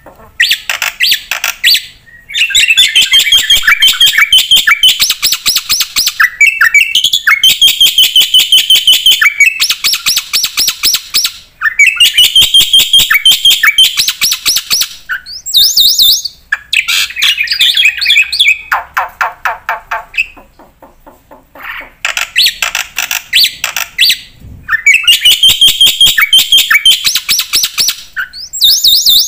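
Black-winged myna (jalak putih) singing hard: long runs of fast, repeated chirping notes in varied phrases, broken by short pauses and a longer lull about two-thirds of the way through.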